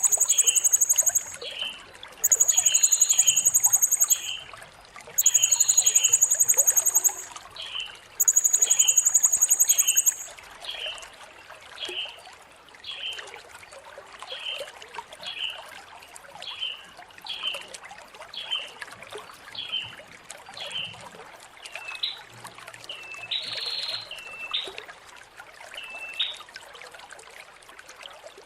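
Blue-crowned hanging parrot (serindit) calling. Four long, very high buzzing trills of about two seconds each come in the first ten seconds, over a steady run of short repeated chirps, with trickling water behind.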